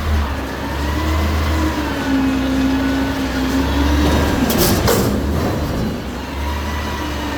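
Garbage truck's diesel engine running with a heavy low rumble, a steady whine for about two seconds, and short hisses a little past the middle.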